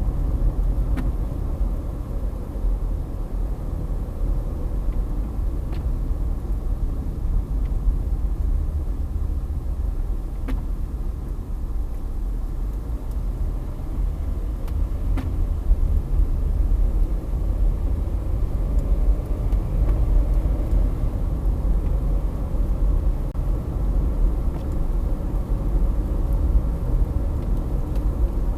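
Steady low rumble of a car driving, as heard inside the cabin: road and engine noise, with a few faint ticks.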